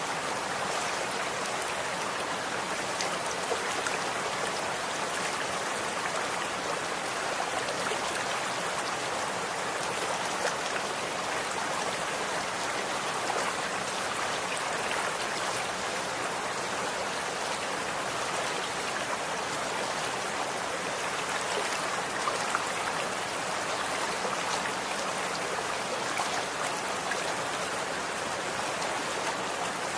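Running water: a steady rush and splash of flowing water with many small droplet ticks.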